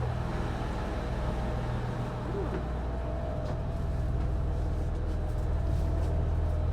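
Train running: a low, steady engine drone with a fainter steady hum above it. It eases off slightly, then builds again over the last few seconds.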